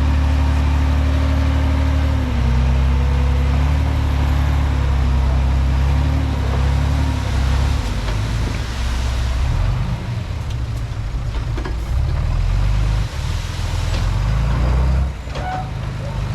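Komatsu D31P bulldozer's diesel engine running under working load, its note shifting in pitch as the load changes. About halfway through a hiss swells, and sharp clicks and clanks follow. The engine sound drops a little near the end.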